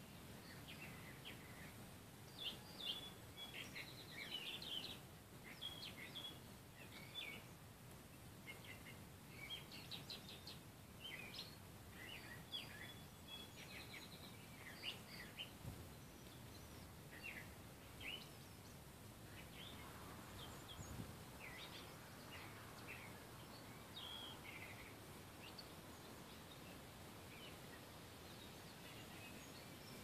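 Wild songbirds chirping and singing: many short, high chirps and trills in quick runs, busiest in the first half. Under them is a faint steady hiss of background noise.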